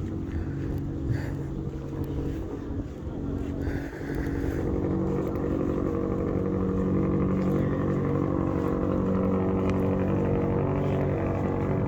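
A car or truck engine running with a steady, even hum. It grows louder about four seconds in and then holds steady.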